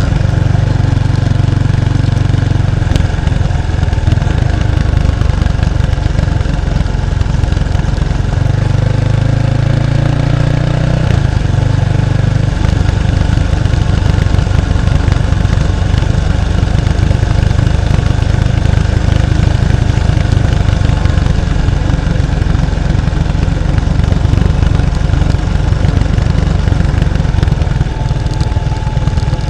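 1993 Kawasaki Estrella 250's air-cooled single-cylinder engine heard through its stock muffler, close to the exhaust, running steadily under way. The engine note changes for a few seconds about a third of the way in, and the sound eases off a little near the end.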